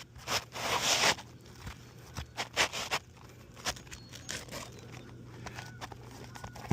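Irregular scrapes and rips as roof shingles are worked on by hand and tool, loudest about a second in.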